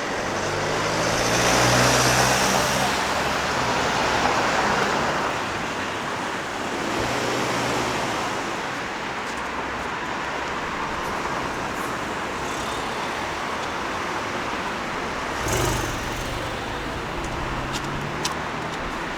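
Road traffic passing on a city street: a vehicle swells past in the first few seconds with its engine audible, another goes by a few seconds later, and there is a short louder rush near the end, over a steady traffic hum.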